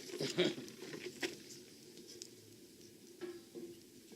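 A few light wooden clicks and knocks, the loudest about a second in, as a stick is wedged against a pan sitting on a wood fire, over a faint steady hiss.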